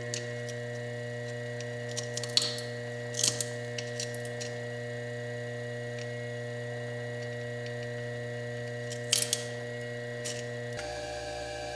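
Foredom bench lathe motor running with a steady hum, a slitting disc cutting into fire agate with a few short scratchy grinding bursts. Near the end the hum changes pitch.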